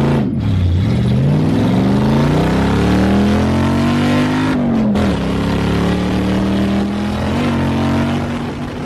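Lexus LS400's 1UZ V8 revving hard on a drift run. The revs dip briefly near the start, climb steadily for about four seconds, fall off sharply about halfway through, then hold fairly steady.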